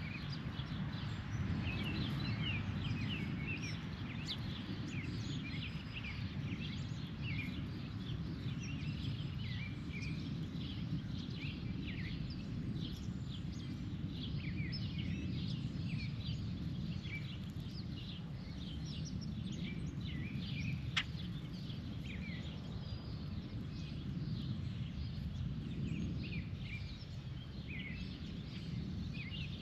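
Many birds chirping and calling in quick, overlapping short notes over a steady low outdoor rumble, with one sharp click about two-thirds of the way through.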